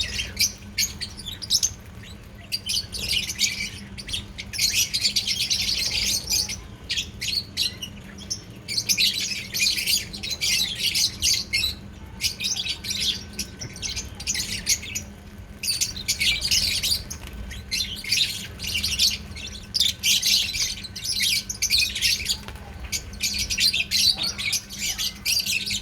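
Several pet lovebirds chattering, with rapid, high-pitched chirps and squawks that come in bouts of a few seconds with brief lulls between.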